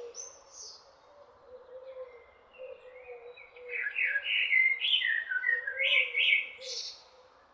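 Small birds chirping and singing, with a busier run of quick chirps and trills from about the middle of the stretch until near the end.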